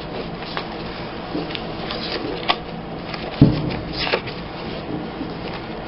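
Paper journaling cards and tags being handled and shuffled through, with light rustles and small clicks, and a dull knock about three and a half seconds in.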